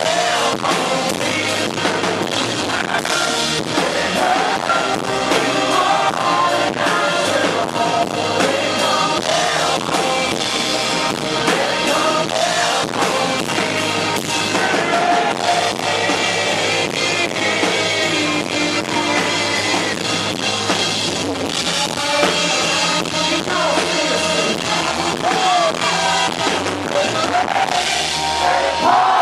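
Live country-rock band playing a song loudly, with a drum kit keeping a steady beat under a sung vocal line.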